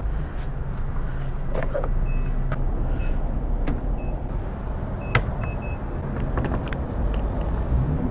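Gas pump keypad giving several short electronic beeps about a second apart, with a few clicks, over a steady low hum.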